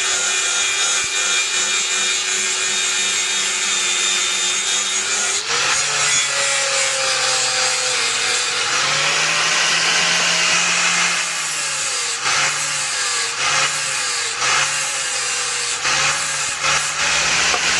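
Electric grinder working on steel: a steady motor pitch with a harsh grinding hiss, about six seconds in the motor pitch rises, and in the second half it dips and recovers again and again as the tool is pressed into the metal and eased off.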